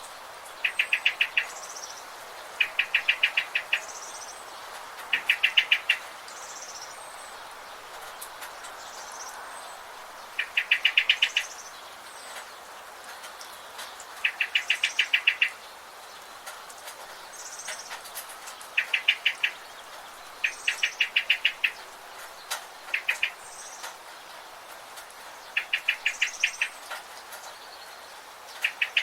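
Birds singing: one bird repeats a short, fast trill of evenly spaced notes, about a second long, every few seconds. Fainter, higher chirps and a steady background hiss run underneath.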